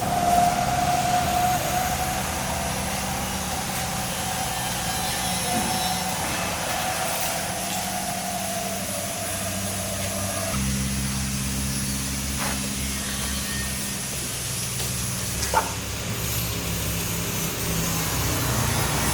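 Truck engine running steadily with a higher whine over it. The whine cuts off about ten seconds in, and the engine's low hum grows louder.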